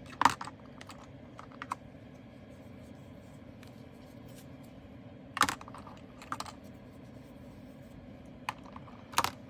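Small plastic bead bottles and storage box clicking and knocking lightly as they are handled and wiped, with a few sharper clicks about a quarter second in, midway and near the end.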